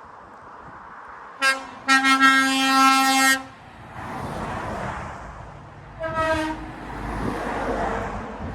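Truck air horns sounding as lorries pass: a short toot, then a steady blast of about a second and a half, and a few seconds later a shorter, higher toot from a second horn, over the rumble of passing truck engines.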